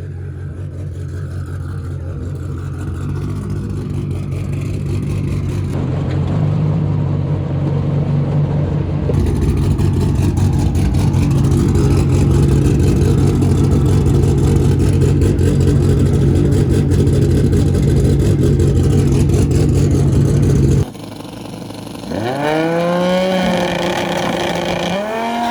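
A drag car's twin-turbo V10 Dodge Viper engine running with a steady note, growing louder over the first dozen seconds and then holding. The sound cuts off abruptly about 21 seconds in, and rising, swooping tones follow near the end.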